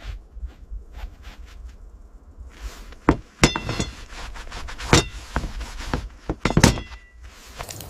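A run of sharp metallic knocks and clinks, metal striking metal, a few of them ringing briefly, the loudest about three and a half, five and six and a half seconds in, over a low steady rumble.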